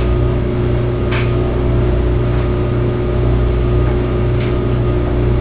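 A steady low hum with a fixed tone, from an unseen machine or electrical source. Two faint brief sounds come through it, about a second in and near the end.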